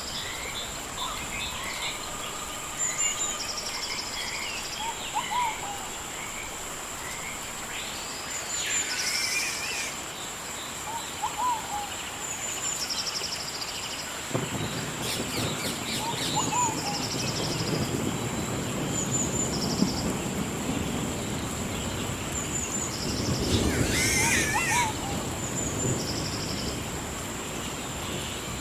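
Rainforest ambience: birds chirp and trill in repeated phrases over a steady high-pitched drone. About halfway through, a low rumble comes in and swells for a few seconds near the end.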